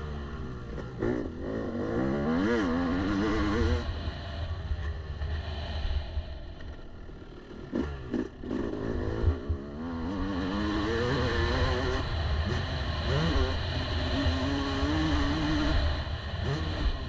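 Yamaha YZ250 two-stroke motocross engine under riding load, its pitch rising and falling as the throttle is opened and closed. Partway through, the engine note dips, followed by a few sharp knocks, before it revs up again.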